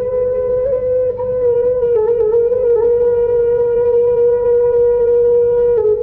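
Minang bamboo flute (seruling) instrumental, holding one long note with a few small ornamental turns in its pitch.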